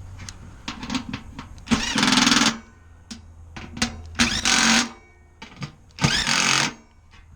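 Small cordless drill running in three short bursts of just under a second each, driving the bolts on a blower motor mount, with small clicks of handling between the runs.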